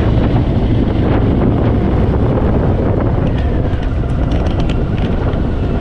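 Wind rushing over the microphone of a moving motorcycle, with the Harley-Davidson Fat Boy's V-twin engine running low underneath.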